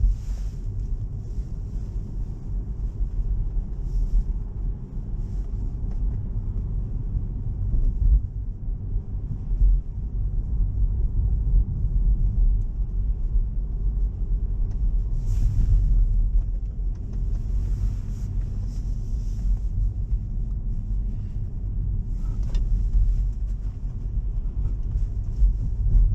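Steady low road and tyre rumble inside a Tesla electric car's cabin on a wet road, with a few brief hissing swells about halfway through.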